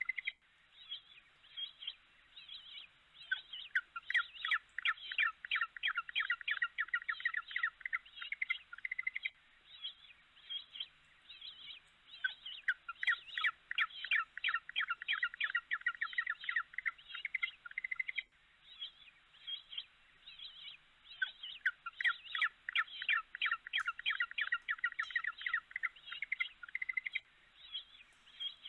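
Bird-like chirping: fast, high-pitched chirps in dense runs of about six seconds, with sparser chirps between. The same run comes round about every nine seconds, like a looped recording.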